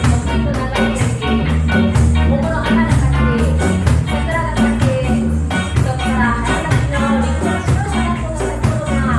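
Live reggae band playing, with a singing voice over a steady bass line and regular rhythmic strums.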